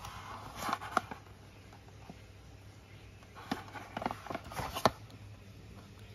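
Packaging of a diecast model being handled and opened: rustling with sharp clicks in two bursts, one at the start and one about three and a half seconds in, ending on the loudest click.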